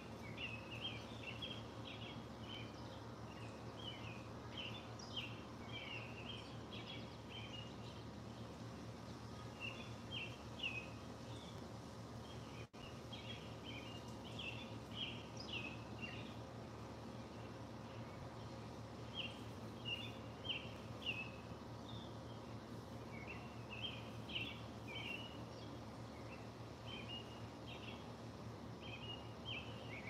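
Birds chirping in short, quick bursts of high notes that recur every few seconds, over a steady low hum.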